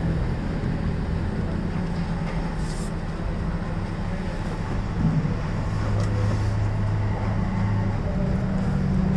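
An engine running steadily, a low hum whose pitch shifts slightly about five to six seconds in, with a brief hiss and a small knock along the way.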